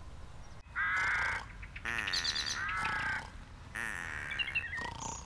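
Bird calls: three separate wavering calls, each about half a second to a second long, then a few short high chirps near the end.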